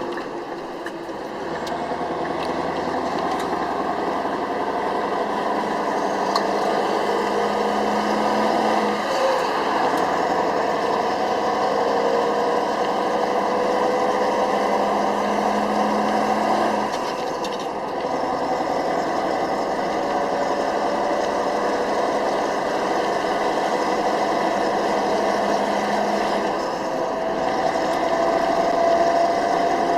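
Scania R500 V8 diesel truck engine pulling under load, its pitch slowly climbing, with brief drops three times that sound like gear changes.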